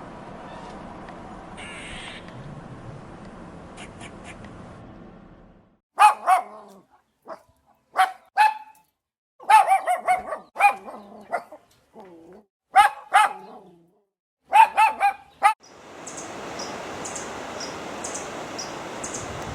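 A dog barking: sharp barks in short clusters over about ten seconds, starting about six seconds in. A steady hiss lies before and after, with a quick repeating high chirping near the end.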